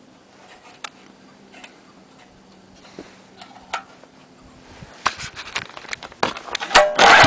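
Scattered light clicks and knocks, growing into louder, rapid rattling from about five seconds in. Just before the end the Mitsubishi G510L small engine starts and runs loudly.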